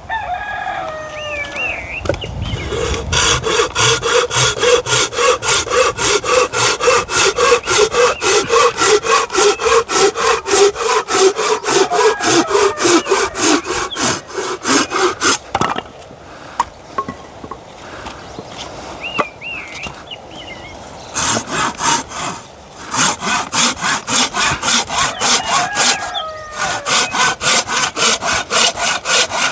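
Hand saw cutting through a log in quick, regular back-and-forth strokes, about three a second. It stops for several seconds about halfway through, then starts again.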